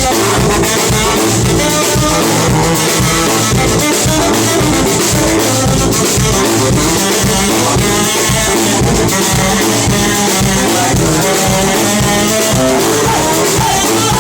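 Brass band playing an up-tempo number live: horn lines over a driving drum beat and a pulsing bass line, recorded loud on a phone's microphone.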